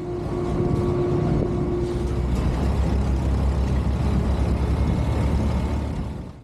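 Steady low rumble of a running vehicle engine, with a held tone over it for the first two seconds, fading in and out.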